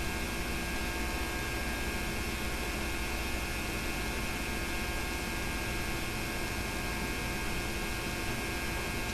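Steady electrical hum with hiss on the soundtrack of a silent home movie's tape transfer, unchanging throughout.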